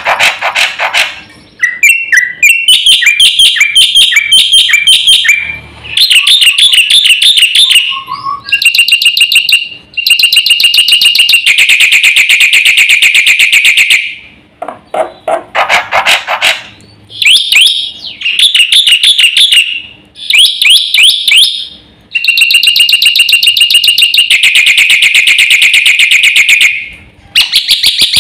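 Black-winged myna (jalak putih) singing loudly in long phrases of rapid, repeated chattering notes and trills, broken by short pauses.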